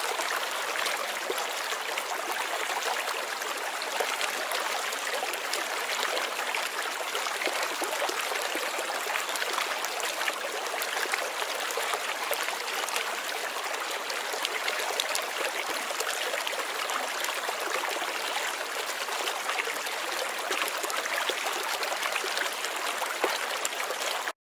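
Running water of a stream, a steady babble with small splashes and trickles throughout; it cuts off suddenly near the end.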